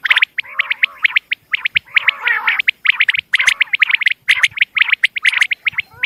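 Female common quail calling: quick clusters of short, high chirps, several notes to a cluster, with softer, lower warbling notes under some clusters.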